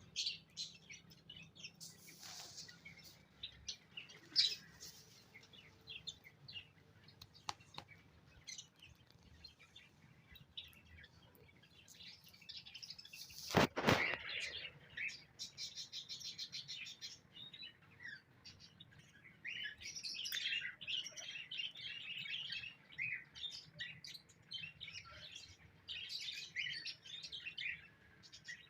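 Small cage birds chirping and twittering in many quick high calls, growing busier in the second half, with one sharp knock about halfway through.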